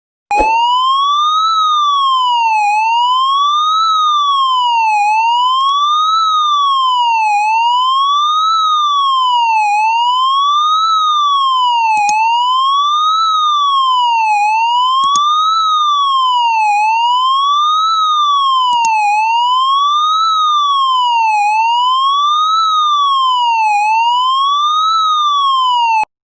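Siren wailing, its pitch rising and falling in even sweeps of about two and a half seconds each. It stops suddenly near the end.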